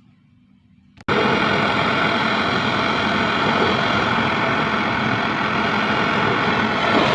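A loud, steady rushing noise that starts abruptly about a second in and cuts off abruptly near the end.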